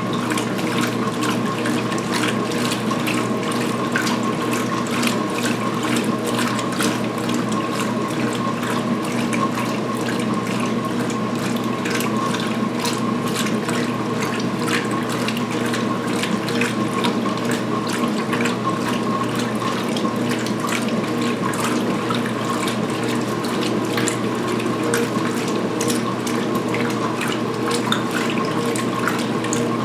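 2016 Speed Queen belt-drive top-load washer in high-speed agitation during the rinse: a steady motor and transmission hum with water and towels sloshing in the tub.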